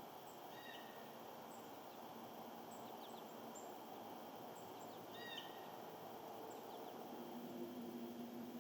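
Faint outdoor ambience with wild birds calling: two short calls, one about half a second in and one just past five seconds, with scattered faint high chips between them. A low steady hum comes in near the end.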